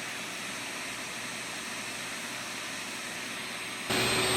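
A vacuum cleaner running with a steady rushing whine, suddenly much louder near the end.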